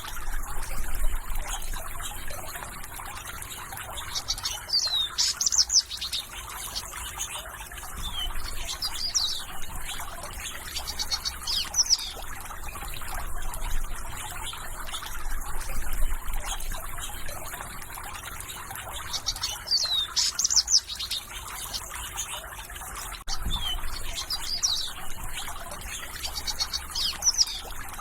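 Songbirds singing in short bursts of chirps and trills over the steady trickle of running water.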